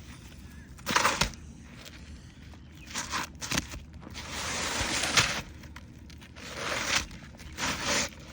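Asphalt roof shingles scraping and rustling in about five short gritty bursts, the longest about a second long a little past the middle.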